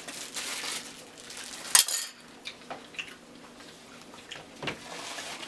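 Cutlery and takeout food containers clinking and rustling during a meal, with one louder, sharp clatter about two seconds in.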